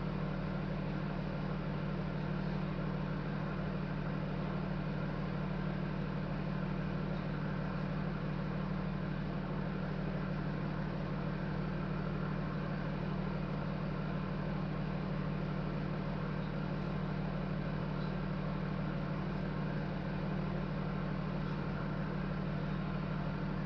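A vehicle engine idling in a steady, unchanging drone.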